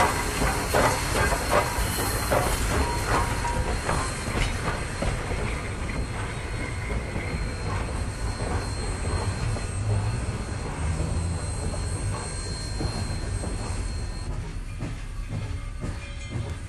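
A train running on rails, recorded for a 1958 stereo LP of railroad sounds: a rapid clatter of wheels over the track in the first few seconds settles into a steady rolling rumble that eases slightly toward the end.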